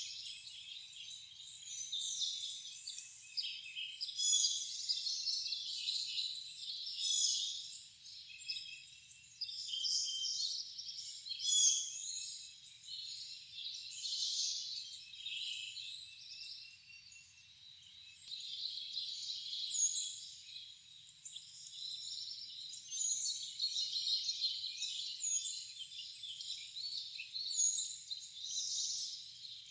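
A chorus of wild birds, many overlapping chirps and songs, with short high chirps repeating through the second half.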